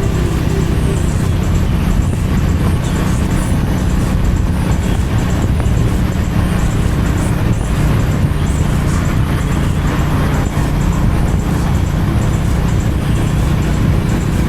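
Honda H'ness CB350's single-cylinder engine and exhaust running at a steady cruise, with wind and road noise.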